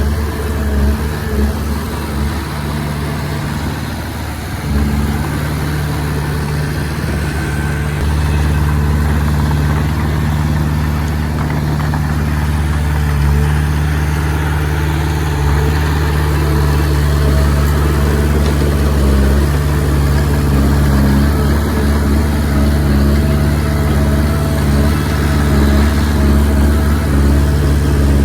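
Komatsu D20P small bulldozer's diesel engine running steadily while pushing soil, easing off slightly a few seconds in and then holding steady.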